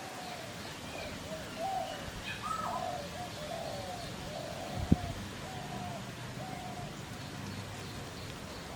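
A bird calling over and over in a run of short, arched notes, with a single sharp knock about five seconds in.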